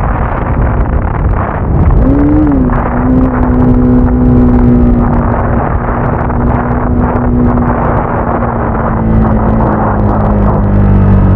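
Motorcycle engine running under way, with a quick rise and fall in revs about two seconds in, then a steady pitch that sinks slightly near the end as the bike eases off.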